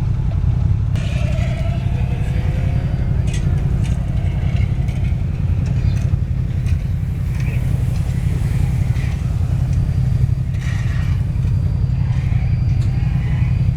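A steady low engine-like drone that does not change, with faint voices in the background.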